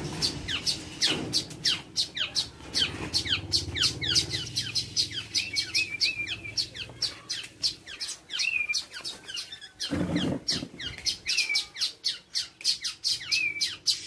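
Birds chirping rapidly and without pause, several short high notes a second, with a few short warbled notes mixed in. There is a brief low bump about ten seconds in.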